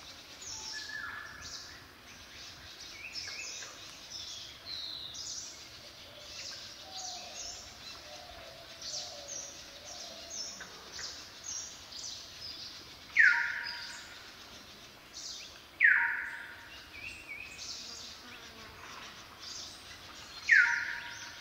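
Outdoor birdsong: many small birds chirping and twittering throughout, with three much louder calls that slide down in pitch, about thirteen, sixteen and twenty seconds in.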